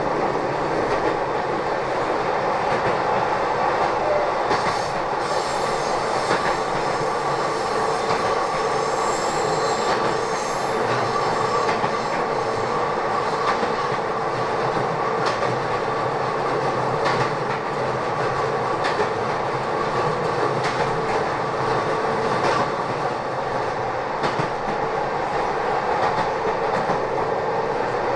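Kobe Electric Railway electric train running, heard from inside the passenger car: a steady running rumble with a motor hum and scattered clicks from the rails. A high wheel squeal comes in from about five to ten seconds in.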